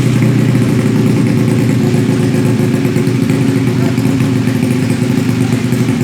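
Automatic scooter engine idling steadily through a WRC 'Mber' standard-racing aftermarket exhaust, running loud and even without revving.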